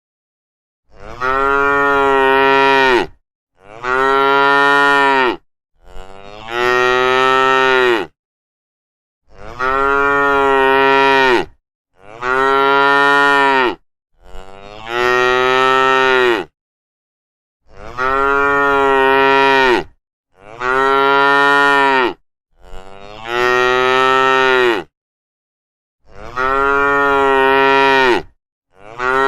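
Cattle mooing: a long run of drawn-out moos, about ten, each lasting around two seconds and rising slightly then falling away, with short silent pauses between them.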